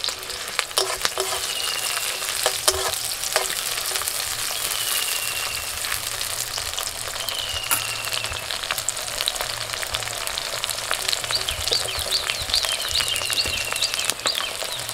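Chopped onion, nigella seeds and slit green chillies frying in mustard oil in a metal kadai, a steady sizzle. A metal spatula knocks against the pan a few times in the first few seconds.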